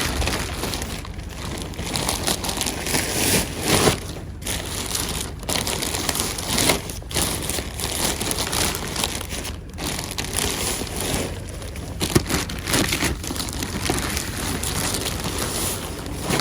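Rummaging through trash in a dumpster: plastic bags and debris crinkling and rustling, with irregular knocks and clatters as items are moved.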